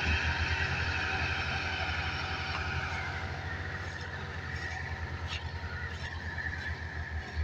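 Tractor diesel engine running with a fast, even chugging beat, easing off slightly in loudness over the last few seconds.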